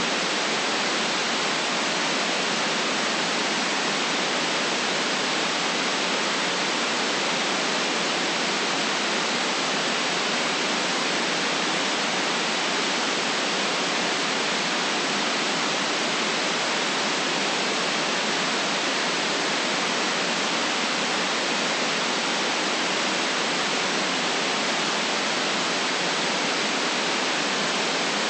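Steady white noise, an even hiss with no low rumble and no changes in level.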